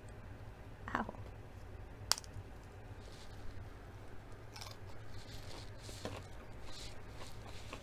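A crisp lettuce-leaf wrap is handled, with a sharp click about two seconds in. Then it is bitten and chewed close to the microphone, with a run of short crunchy chewing noises from about halfway through.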